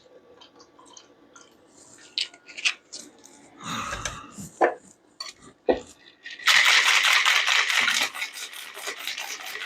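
Small clinks and scrapes of bar tools and glassware, then, about six and a half seconds in, a cocktail shaker being shaken hard, its contents rattling in a fast, steady rhythm.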